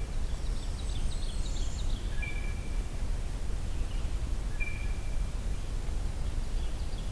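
Bell-like call of a blue jay (the recordist's 'probably'), a short ringing two-pitch note heard twice, about two seconds in and again about four and a half seconds in. Faint thin high notes of a smaller bird come about a second in, over a steady low background rumble.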